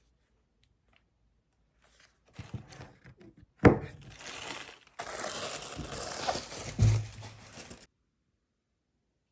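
Crinkly wrapping material being handled and rustled, with a sharp knock early on and a dull thump near the end, cut off suddenly.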